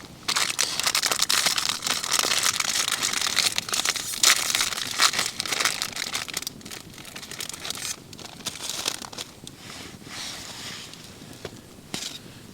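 Crinkling, rustling handling noise thick with small crackles, loudest for the first six seconds or so and then quieter, with a few separate clicks near the end.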